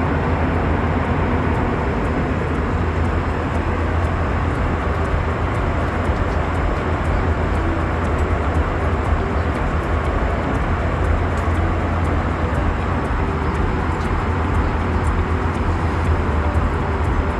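Steady cabin noise of an Airbus A321-200 in cruise: a constant low rumble of the engines and rushing airflow heard from inside the cabin.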